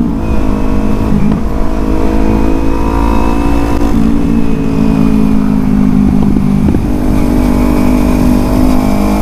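Kawasaki Z250 parallel-twin engine running under way while riding, holding fairly steady revs with small rises and falls, over a low rumble.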